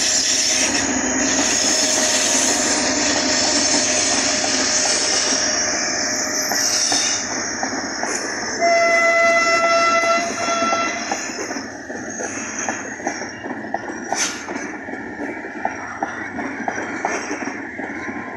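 Pakistan Railways HGMU-30 diesel-electric locomotive passing close by with its passenger coaches, its loud running noise filling the first half. About nine seconds in, a train horn sounds one steady chord for about two seconds. Then wheels click in a steady rhythm over the rail joints as the coaches roll past.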